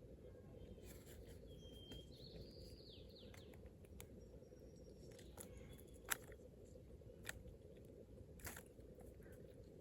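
Near silence: faint steady outdoor background, with a short bird call, a whistle then a falling chirp, a couple of seconds in, and a few sharp clicks later on.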